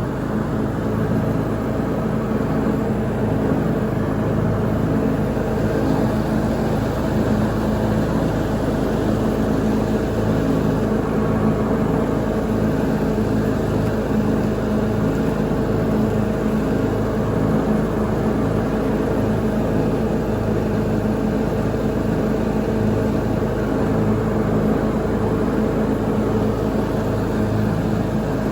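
Lawn mower engine running steadily at constant speed while mowing, an even drone with no change in pitch or level.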